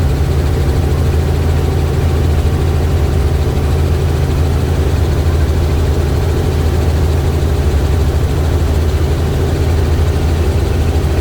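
Helicopter in flight: steady drone of the rotor and engine, unchanging throughout.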